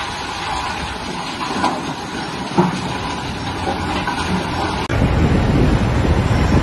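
VST Shakti 30 HP compact tractor running. About five seconds in, louder low rumbling wind noise on the microphone sets in suddenly.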